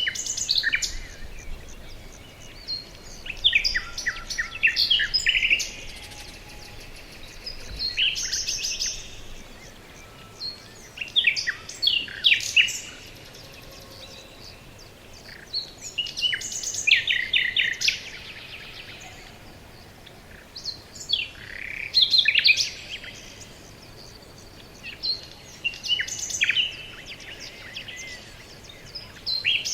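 Songbirds singing short phrases of fast repeated and falling notes, each lasting a second or two, about every four seconds.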